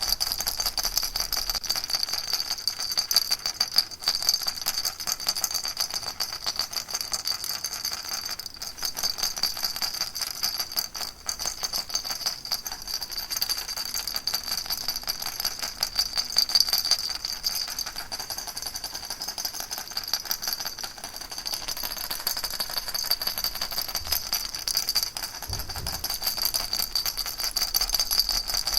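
Baby rattle shaken without a break: a dense, steady, fast rattling.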